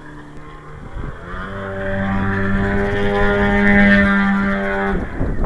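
Engine of a display airplane droning steadily, a propeller aircraft at the airshow, building up about a second in, loudest around four seconds, then cutting off suddenly near five seconds.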